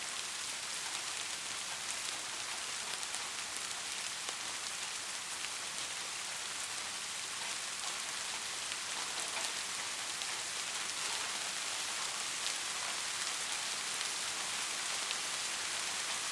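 Steady rain: an even hiss full of tiny ticks of individual drops, growing slightly louder toward the end.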